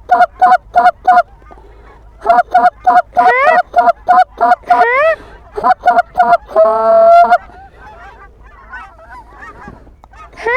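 Canada goose calls blown in quick runs of short clucks and honks, several in a row, some sliding upward in pitch, with one long held honk about two thirds of the way through. Fainter honks follow near the end. The calling is aimed at geese working in to land on the decoys.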